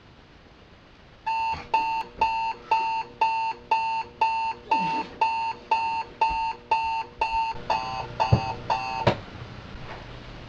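Electronic alarm clock beeping, about two beeps a second, then cut off suddenly after a couple of knocks.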